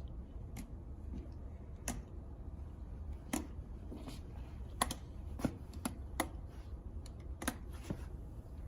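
Dance steps on a hard floor: scattered sharp taps of shoes landing, irregularly spaced, over a low steady hum.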